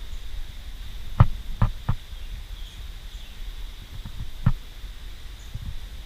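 Strong wind buffeting the microphone with a low rumble, with a steady faint high-pitched tone behind it. Three sharp knocks come in quick succession about a second in, and one more comes past the middle.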